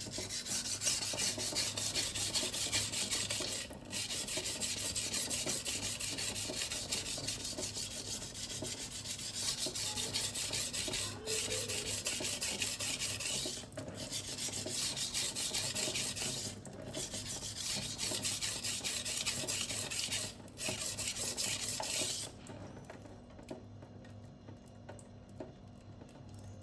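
Steel kitchen knife blade stroked back and forth on a coarse silicon carbide whetstone: a continuous gritty scraping with five short pauses, stopping about 22 seconds in.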